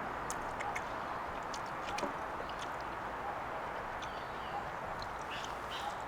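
A steady hiss with short, high bird chirps and calls scattered over it, a cluster of them near the end.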